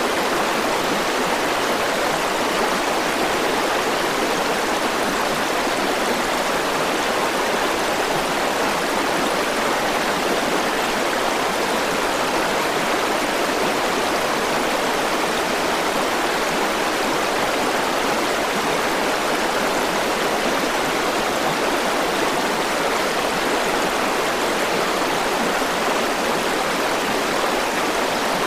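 River water flowing and rushing steadily over its bed, an even, unbroken rush of noise.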